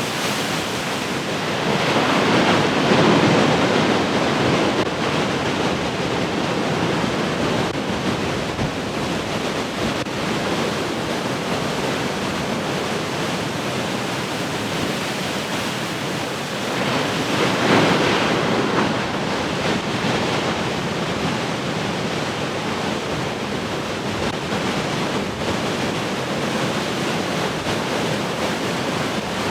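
Heavy ocean surf: a steady wash of breaking waves, with two bigger waves crashing louder, one a couple of seconds in and one a little past halfway.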